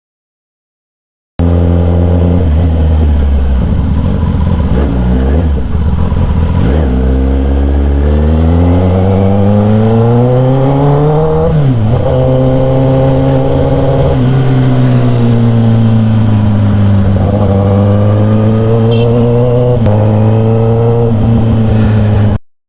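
Kawasaki ZX-10R inline-four engine running loud through an SC Project exhaust under way, the revs climbing steadily. The revs drop sharply once about halfway, hold, and then rise again. It cuts in after a moment of silence and cuts off abruptly near the end.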